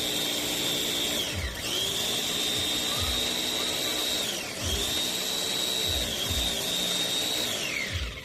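Electric food processor's motor run in three pulses of about three seconds each, its whine rising as it spins up and sliding down as it stops, with low knocks from the food being chopped in the bowl.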